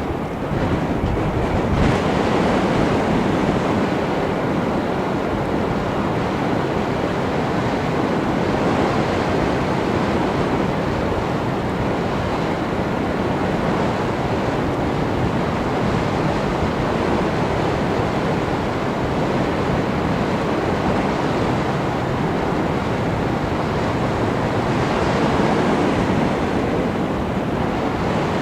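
Steady rushing wind noise of airflow over the microphone of a flying FPV model aircraft, swelling slightly a couple of times.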